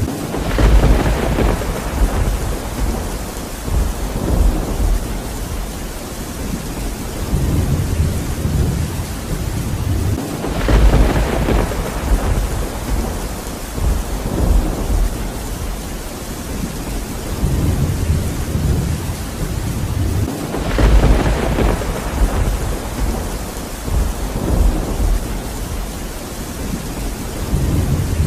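Steady rain with thunder rolling three times, about ten seconds apart. Each peal comes in suddenly and rumbles on for several seconds.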